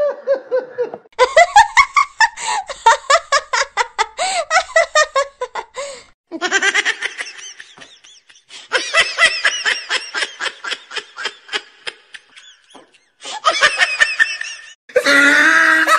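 Several short laughter sound-effect clips played one after another, each a run of quick, pitched bursts of laughing, separated by brief gaps.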